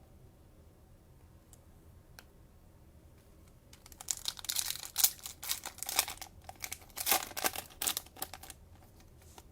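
A trading-card cello pack's plastic wrapper being torn open and crinkled. It is a dense run of crackling and tearing that starts about four seconds in and stops about a second before the end.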